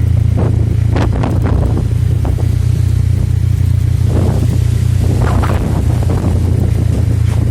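Strong wind buffeting the microphone: a loud, steady low rumble with stronger rushing gusts about a second in and again around four to five seconds in.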